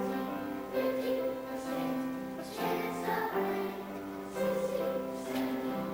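A choir singing with instrumental accompaniment, the melody moving in held notes.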